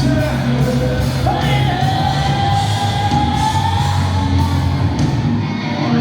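Live rock band playing through a PA system, drums, bass and guitars with a lead singer who holds one long note for a couple of seconds about a second in.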